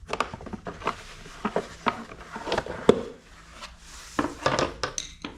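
Irregular knocks, clicks and rubbing, like tools or metal and plastic parts being handled and set down, with the sharpest knock a little before the middle.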